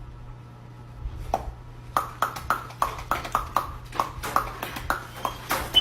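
A quick run of sharp taps, about five a second, each with a brief ringing ping, starting a second or so in, over a steady low hum.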